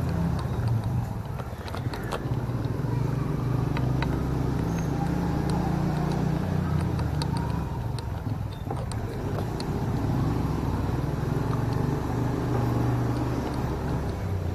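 Motorcycle engine running as the bike rides along, its pitch stepping up and down with the throttle and gears, with scattered light clicks over it.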